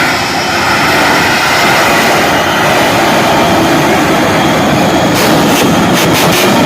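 Shockwave jet truck's three jet engines running loud and steady. From about five seconds in there is a quick run of sharp pops.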